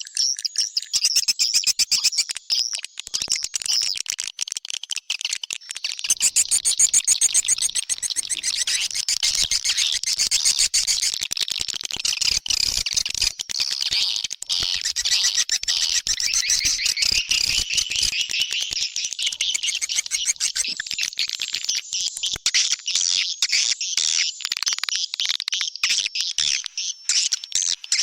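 Swiftlet call-sound lure recording: a dense, unbroken stream of rapid, high chirps and twitters from edible-nest swiftlets, the kind of track played to draw swiftlets into a nesting house.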